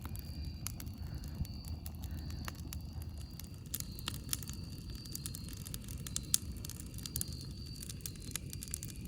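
Wood fire crackling: irregular sharp pops and snaps, busier in the second half with one louder snap about six seconds in, over a low steady rumble.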